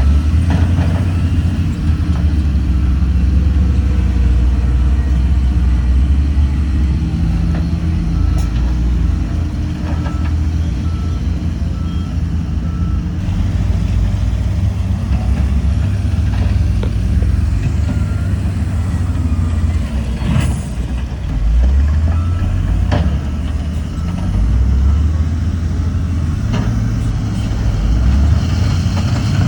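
Heavy diesel earthmoving machinery running under load, its engine note rising and falling. A reversing alarm beeps steadily for a few seconds about a third of the way in, and a few sharp knocks come in the second half.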